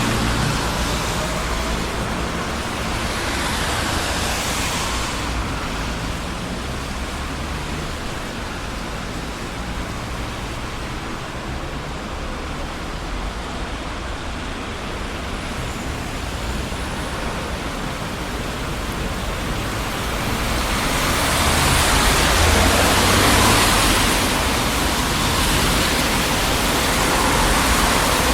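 Traffic on a busy city street: a continuous rumble of engines and tyres, swelling as vehicles pass a few seconds in and again through the last third.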